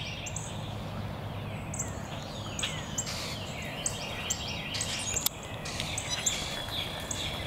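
Songbirds chirping and calling over and over, some calls short and high, some gliding downward, over a steady low background rumble; a single sharp click about five seconds in.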